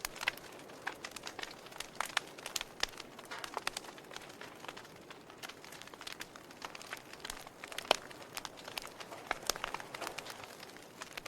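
Burning wood fire crackling: irregular sharp pops and snaps over a soft steady hiss, with one louder pop about eight seconds in.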